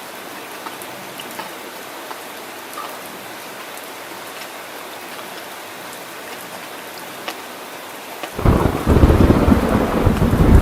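Steady rain falling, with scattered small drip sounds, then about eight seconds in a loud, deep rumble of thunder breaks in suddenly and keeps rolling.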